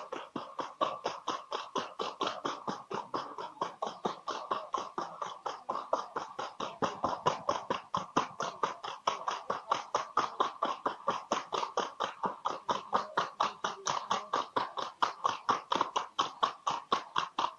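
Hoofbeats of a Colombian Paso horse being ridden, a quick, very even patter of sharp hoof strikes at about six a second.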